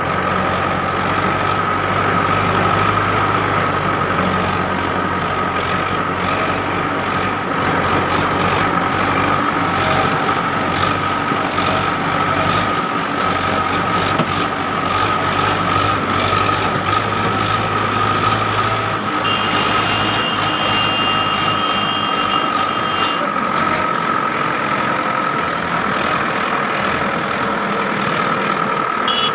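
Farm tractor engine running steadily under a continuous high whine. About twenty seconds in, a higher two-note tone sounds for about three and a half seconds.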